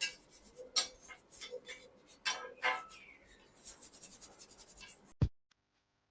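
Metal clinks, scrapes and short ringing taps of hand tools on bicycle parts, with a quick run of ticking near the end. A single loud thump follows, then the sound cuts off suddenly.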